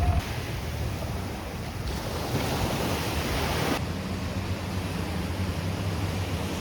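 Sea surf washing onto the beach, with wind on the microphone; a louder wash of surf comes in about two seconds in and lasts about two seconds.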